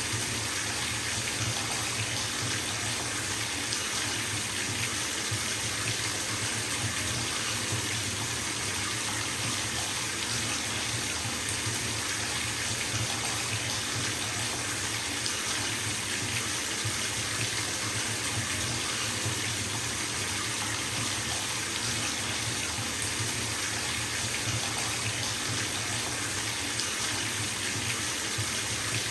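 Water running from a bathtub tap into the tub as it fills: a steady, even rushing splash with no breaks.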